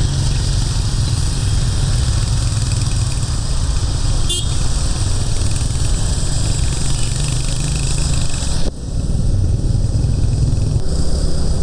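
Motorcycle running at road speed, its engine rumble mixed with heavy wind noise on the rider's microphone. The sound drops out sharply for a moment about nine seconds in, then carries on.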